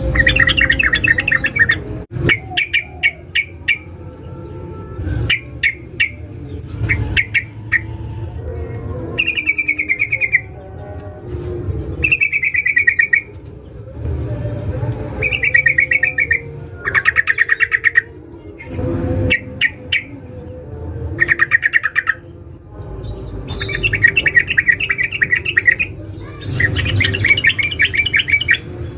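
Yellow-vented bulbul (trucukan) calling, the call of a female to a male: bursts of rapid chattering notes, each about a second long, repeating every second or two over a low background rumble.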